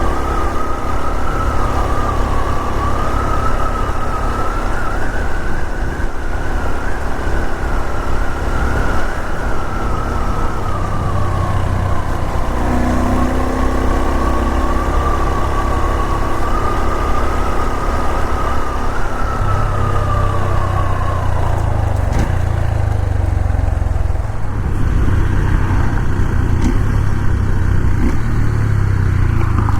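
Honda Super Cub 125's single-cylinder engine running under way, with a heavy low rumble of engine and wind. A high whine wavers slowly up and down for the first two-thirds, then fades.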